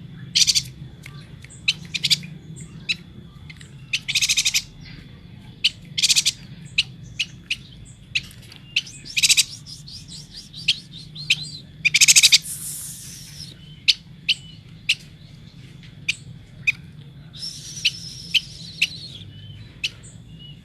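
Chestnut-crested yuhina calling: short, high chattering bursts and scattered single sharp chirps, with longer rasping phrases about twelve seconds in and again near the end. Beneath the calls runs a faint steady high tone and a low hum.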